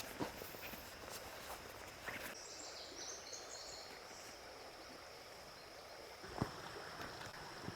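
Quiet creekside ambience: a steady hiss of flowing water with a thin, steady high tone, and a few brief high chirps about two and a half seconds in. A few sparse knocks stand out, the loudest about six and a half seconds in.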